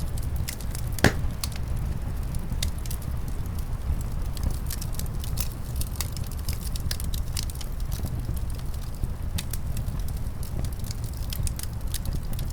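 Wood fire in a fireplace crackling, with frequent small sharp pops and one louder pop about a second in, over a steady low rumble.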